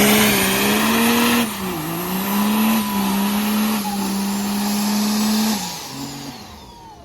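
Truck engine held at high revs with a steady note over the hiss of spinning tyres, as in a burnout. The revs fall away about five and a half seconds in.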